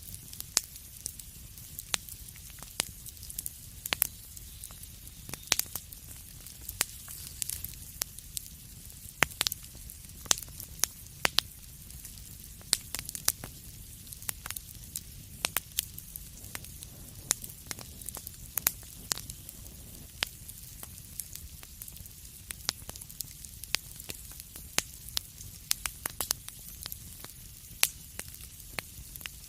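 Wood fire crackling, with irregular sharp pops and snaps over a steady low rumble and hiss.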